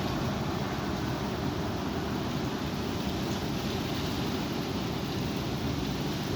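Strong wind blowing, a steady rushing noise without let-up.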